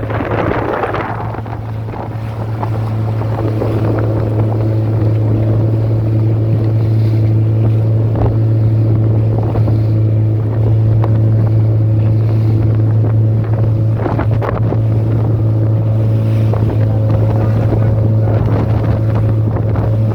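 Motorboat engine running under way, building up over the first few seconds and then holding a steady drone, with wind buffeting the microphone.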